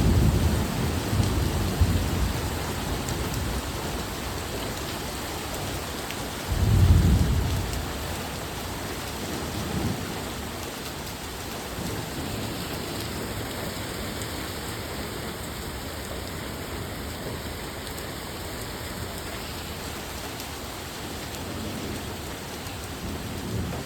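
Steady rain falling, an even hiss throughout. A low rumble sounds at the start and again, loudest, about seven seconds in.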